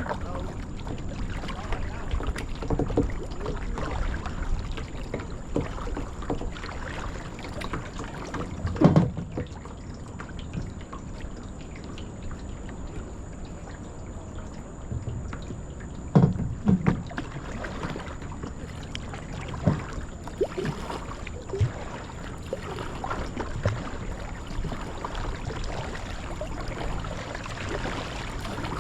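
Kayak paddling on calm water: water trickling and dripping off the paddle as it strokes, with a few dull knocks about 9, 16 and 20 seconds in.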